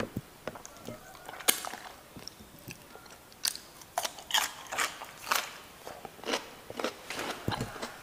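Crunchy chewing of raw cucumber: a string of short, sharp crunches at an uneven pace.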